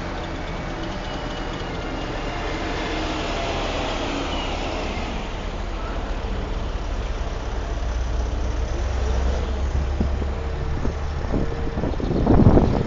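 A truck engine running steadily with a low hum, with a brief louder rumble near the end.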